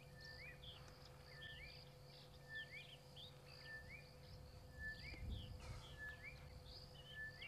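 A bird calling over and over, about once a second, each call a short level note that swoops upward at the end, over quiet bush ambience. A faint low rumble swells briefly about five seconds in.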